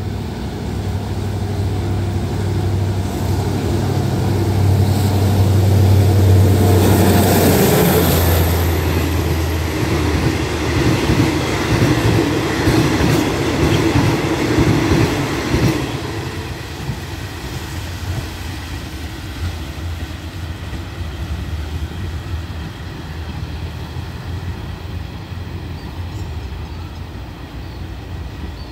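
Alsthom diesel locomotive 4102 hauling a passenger train: its engine hum grows as it approaches and drops in pitch as it passes close by, about seven seconds in. The coaches then roll past with their wheels clicking over the rail joints. The noise falls away sharply at about sixteen seconds as the last coach goes by, leaving the train fading into the distance.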